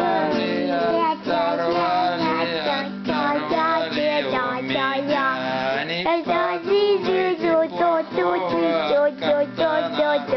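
A voice singing a chastushka tune, accompanied by acoustic guitar.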